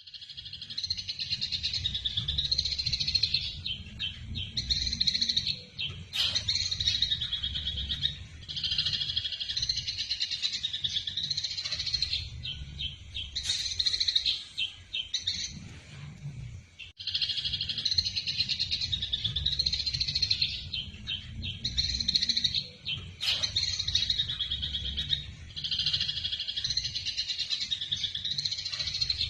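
Eurasian tree sparrows chattering in dense, rapid runs of high chirps, the excited calls of sparrows fighting, coming in spells of several seconds with short breaks over a low rumble.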